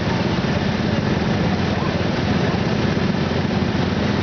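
Garden tractor engine running steadily, with no clear rise or fall in pitch.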